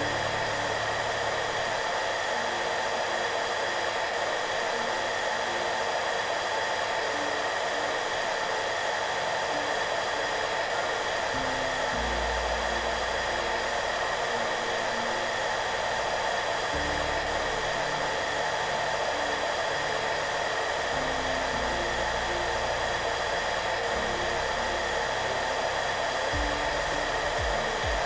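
Hair dryer running steadily, an even whooshing noise, with soft background music of slow, low notes beneath it.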